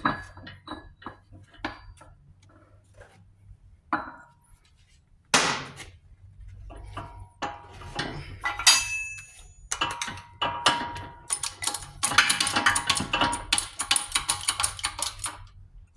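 Steel parts and tools clinking and knocking against each other at a shop press, with short ringing metallic tones. The clicks are sparse at first and come thick and fast in the last few seconds.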